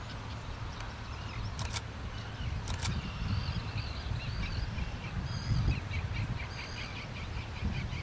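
Small birds chirping and twittering in a marsh, many short high notes, over a steady low rumble. Two sharp clicks sound about two and three seconds in.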